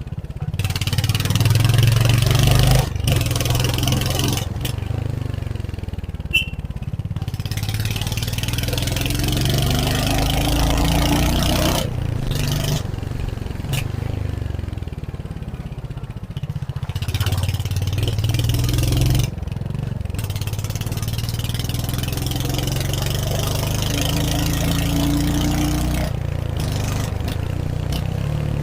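Royal Enfield Hunter 350's single-cylinder engine heard from the rider's seat, pulling and easing off through the gears, its pitch climbing and dropping several times with short breaks at the gear changes.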